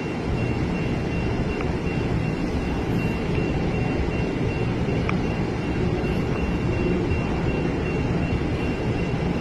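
Steady vehicle noise: a continuous low rumble with a thin, faint high whine held throughout.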